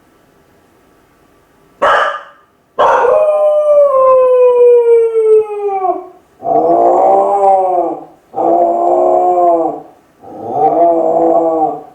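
Kai Ken howling from separation distress while left home alone. A short sharp yelp comes about two seconds in, then one long howl that falls steadily in pitch, followed by three shorter howls.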